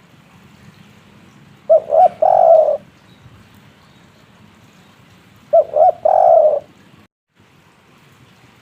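Spotted dove cooing its three-note 'kuk 3' call twice, about four seconds apart: two short notes and then a longer one each time.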